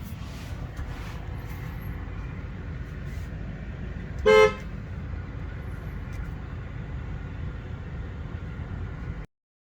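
A single short car-horn beep about halfway through, over a steady low outdoor rumble; the sound cuts off suddenly near the end.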